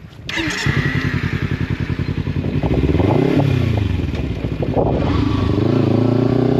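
Motorcycle engine cutting in suddenly about a third of a second in and running with a pulsing beat, revved once up and back down around the middle, then its pitch climbing steadily near the end as it accelerates.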